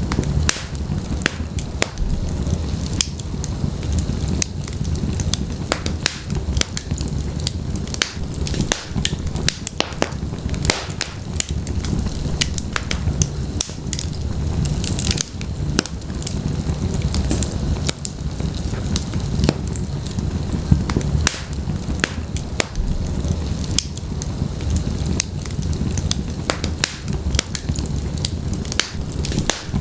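Wood logs burning in a fireplace: a low steady rumble of flames with frequent sharp crackles and pops from the wood.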